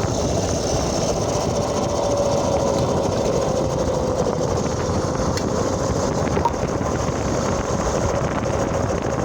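Homemade electric motorbike with an alternator used as its drive motor, riding along at speed: a steady whine that sinks slightly in pitch over a dense rumbling noise.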